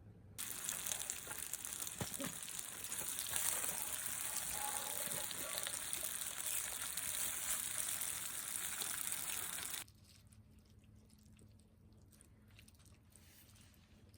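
Water running steadily from a tap, starting suddenly about half a second in and shut off abruptly after about nine seconds.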